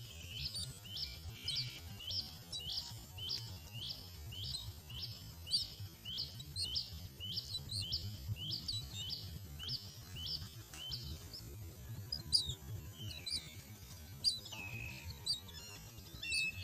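Myna chicks' calls repeated about twice a second, then breaking into scattered chirps for the last few seconds, with background music underneath.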